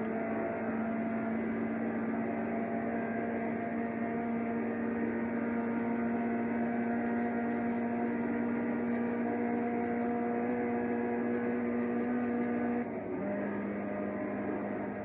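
2009 Mini John Cooper Works' turbocharged 1.6-litre four-cylinder engine under hard acceleration in a high gear, a steady drone rising slowly in pitch. About thirteen seconds in the pitch drops suddenly as the gearbox shifts up, then holds steady.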